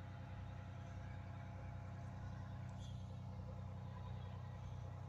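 1989 Pierce Dash fire truck's diesel engine idling, a steady low hum.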